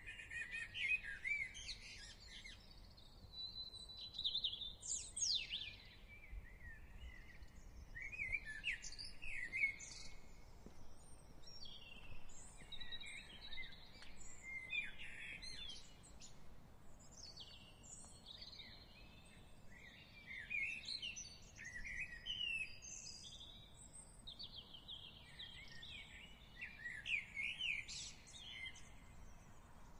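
Several songbirds singing and calling at once, with overlapping chirps and warbled phrases throughout, over a faint steady background hiss.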